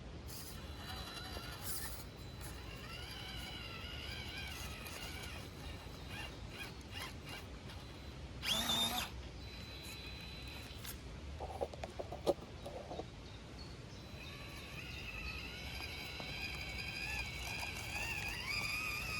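Small electric motor and gearbox of a 1/18 scale RC rock crawler whining, the pitch rising and falling with throttle, with a short loud burst about eight seconds in and a few clicks a few seconds later.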